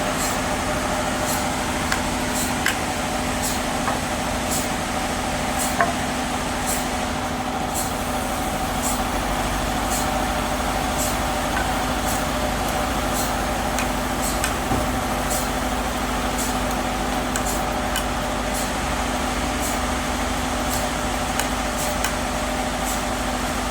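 Band sawmill machinery running steadily with a constant hum, with light clicks about once or twice a second throughout.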